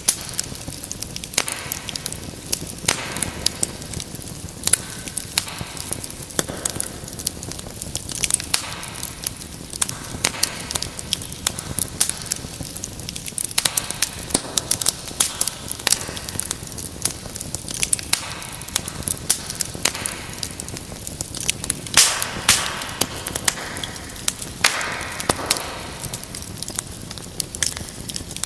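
Wood fire in a fireplace crackling, with many sharp pops and snaps over a steady hiss of flame, and a couple of brief louder hissing flare-ups near the end.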